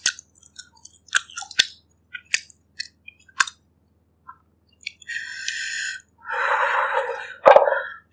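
Close-miked eating of pork ribs in herbal broth: wet chewing clicks and smacks over the first few seconds. Then, from about five seconds in, two longer hissing mouth sounds follow, the second with a sharp click near the end.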